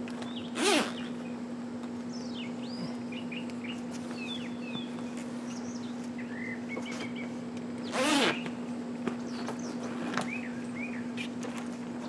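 Wild birds chirping and calling with short rising and falling notes, over a steady low hum. Twice, about a second in and again about eight seconds in, a short, louder scraping sound stands out.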